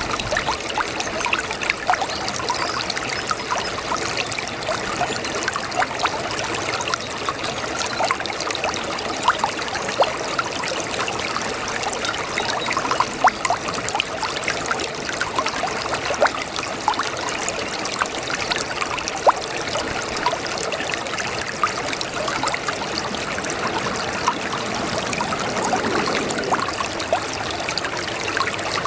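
A small brook babbling over stones: steady trickling and splashing with many quick bright plinks and gurgles.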